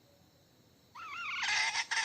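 Domestic hen cackling: about a second in, a wavering call starts and breaks into a rapid run of repeated clucking notes, about seven a second.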